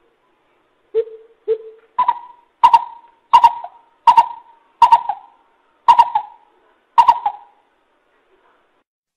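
Coucal calling: two low hoots, then a run of seven higher hoots spaced about three-quarters of a second apart.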